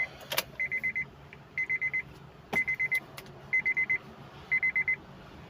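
Warning chime of a 2008 Honda CR-V with the ignition switched on: rapid beeps at one high pitch in groups of four, repeating about once a second. A sharp click sounds about two and a half seconds in.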